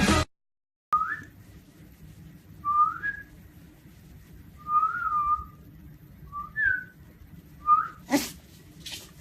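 Alaskan malamute puppy whining in five short, high-pitched cries, each bending up or down in pitch, spaced a second or two apart. A sharp knock comes near the end.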